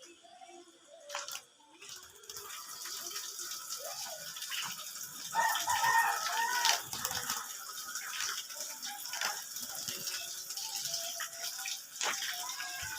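Water running steadily for a caged bird's bath. About five seconds in, a bird gives a louder, wavering call lasting a second or two.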